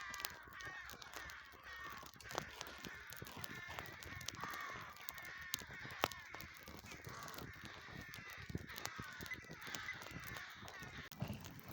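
Many birds calling over and over with harsh, caw-like calls, with scattered sharp clicks; the loudest click comes about six seconds in.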